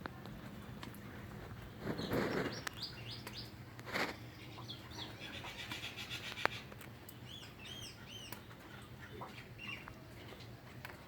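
Small birds chirping in short runs of quick, arched notes, about two seconds in and again near the end. Two brief, louder noisy rushes come about two and four seconds in, and there is a single sharp click in the middle.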